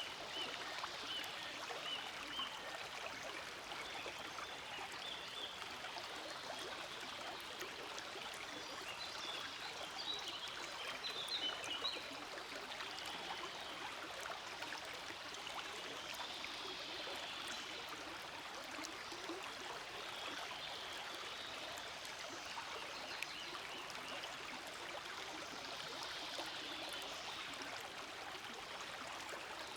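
Forest stream flowing and babbling steadily, with brighter, splashier gurgles about ten to twelve seconds in.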